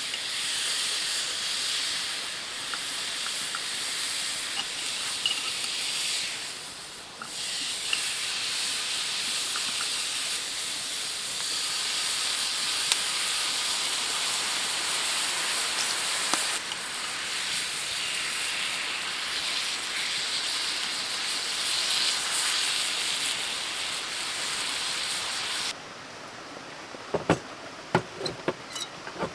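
Food frying in a hot pan: a steady, loud sizzle with small pops, which cuts off suddenly near the end. A few light knocks or clinks follow.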